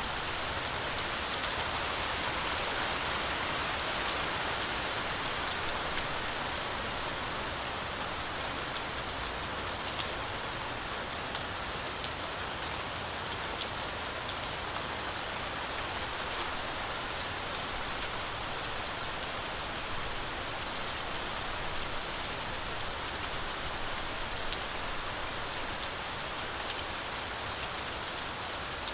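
Heavy rain falling steadily: a dense, even hiss with scattered sharp ticks of single drops.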